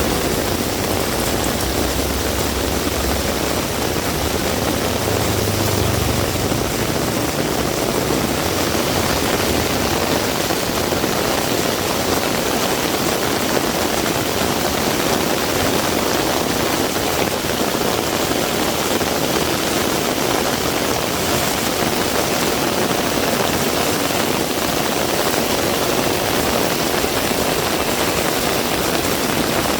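Heavy rain falling steadily. A vehicle engine's low rumble sounds under the rain at the start and fades out about six or seven seconds in.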